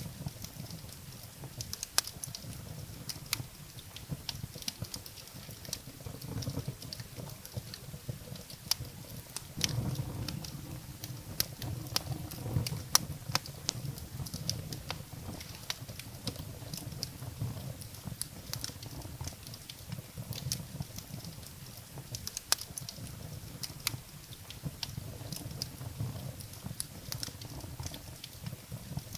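Wood fire burning in a fireplace: irregular sharp crackles and pops from the firewood over a low, fluttering rumble of flames.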